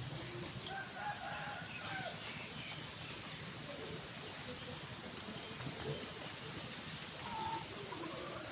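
Short bird calls: a quick run of them about a second in and another single call near the end, over a steady background hiss.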